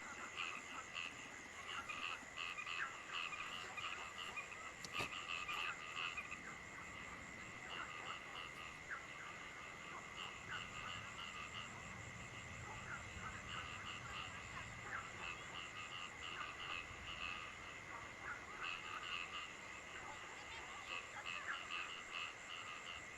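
A chorus of frogs calling in quick repeated pulses, coming in runs that start and stop, over a steady high-pitched drone.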